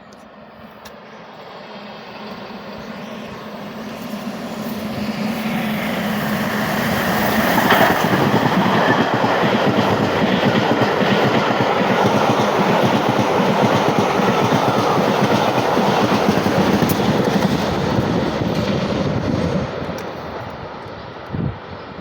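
A locomotive-hauled charter train passing close by. It builds up over several seconds, holds a loud run of wheels clattering over the rail joints with some wheel squeal, then fades as the train clears.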